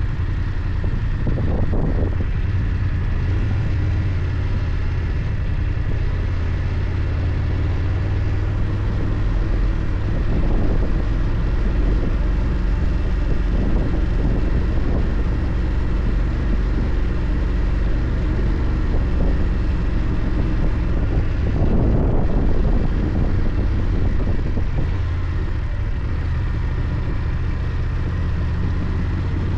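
BMW F 800 GS parallel-twin engine running at a steady cruising pace while the motorcycle is ridden, with road and wind noise over it. A few brief louder swells of noise pass, about two seconds in, around ten seconds and near twenty-two seconds.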